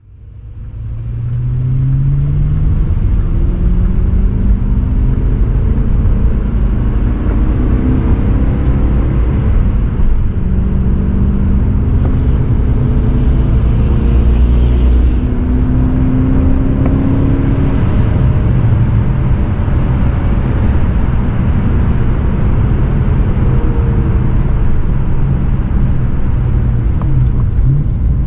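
BMW E39 540i's 4.4-litre V8 running under way, its deep exhaust note rising and falling several times as the car accelerates and the six-speed manual is shifted. The sound fades in over the first two seconds.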